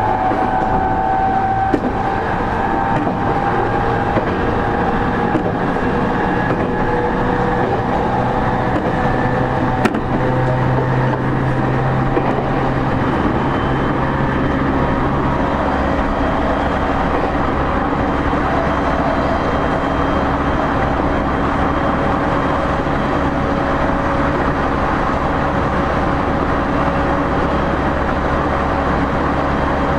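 Running sound of a JR East E231-0 series commuter train, heard from inside a motor car at speed: a steady rumble of wheels and running gear, with thin motor and gear whine tones that slide slowly lower over the first half and then hold steady.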